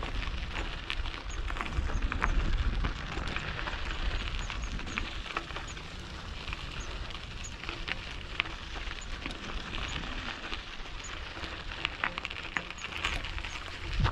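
Mountain bike tyres rolling over a gravel dirt road, crunching and crackling with many small clicks, and low wind rumble on the microphone that is strongest in the first few seconds. Faint, short high-pitched chirps repeat throughout.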